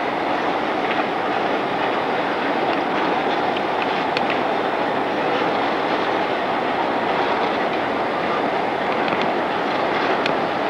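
Mohawk, Adirondack & Northern diesel locomotives rolling past, a steady rumble of engines and wheels on the rails, with a few faint clicks.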